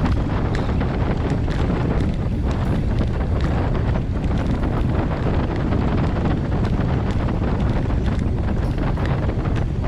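Wind buffeting a GoPro's microphone as a bicycle descends a hill at speed: a loud, steady rumble.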